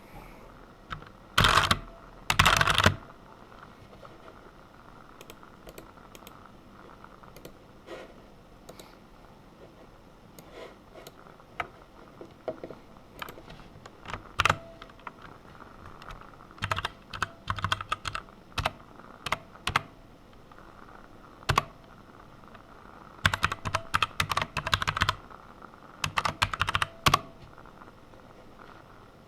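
Typing on a computer keyboard: runs of rapid keystrokes with scattered single key clicks between them, the loudest clusters about a second and a half and two and a half seconds in.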